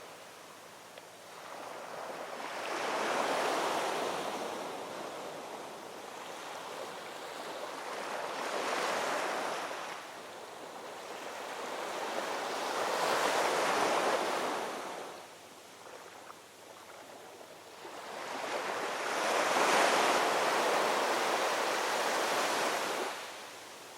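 Ocean waves breaking and washing ashore, four swells of surf about every five seconds, each rising and then fading into a softer lull.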